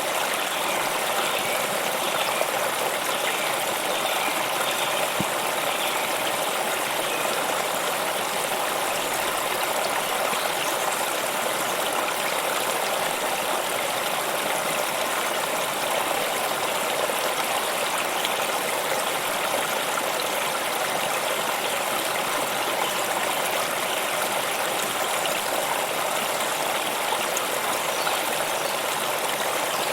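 Water of a stream flowing steadily, an even rushing that doesn't change.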